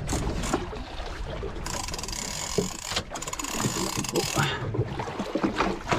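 Fishing reel ratchet clicking as line runs or is wound in on a trolling rod, with a fast run of even ticks about halfway through, over hissing wind and water.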